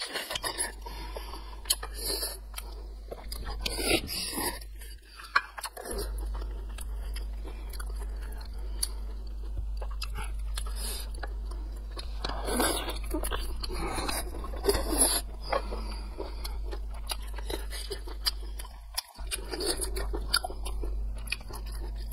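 Biting and chewing large sea snail meat close to the microphone: wet, crunchy mouth sounds with many irregular sharp clicks, busiest about midway.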